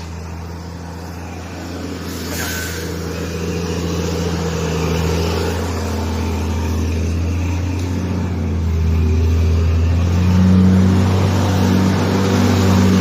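Heavy truck's diesel engine running under load, growing louder as it revs harder over the last few seconds.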